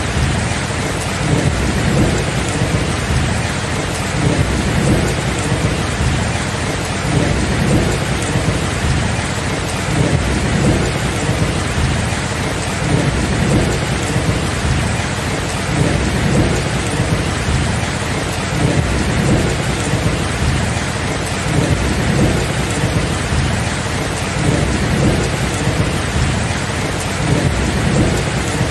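Steady heavy rain with a continuous low rumble of thunder that swells and eases every couple of seconds.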